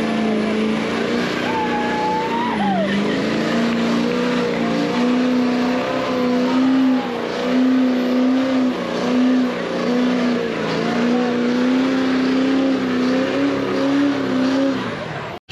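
A vehicle engine held at high, nearly steady revs with small wavers in pitch, as in a burnout, then cut off suddenly near the end.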